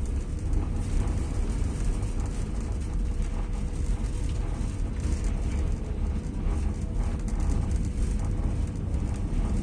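Passenger train coach running at speed, heard from inside: a steady deep rumble of the wheels on the track, with a faint steady hum above it.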